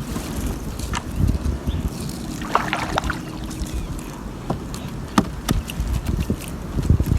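Water sloshing against a small boat's hull, with scattered knocks and clatter on board.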